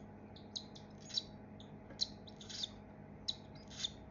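Baby cockatiel chicks giving short, high begging chirps, roughly one or two a second, while being hand-fed formula.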